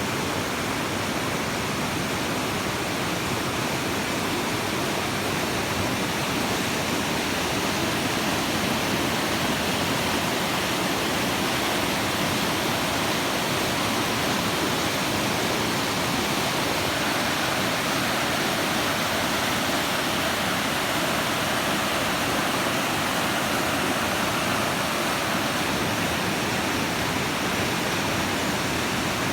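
Rushing river water: the Akigawa running after a typhoon's rains, a loud, steady, unbroken roar of water.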